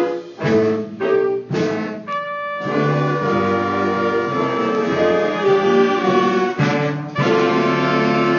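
A school band's brass and saxophones playing: a few short punched chords, a brief break about two seconds in, then long held chords.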